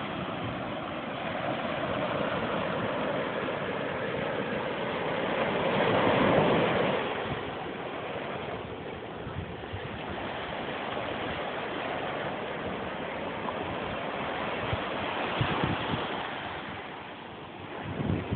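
Sea waves washing over a rocky shore: a steady rush of surf that swells about six seconds in and again around fifteen seconds.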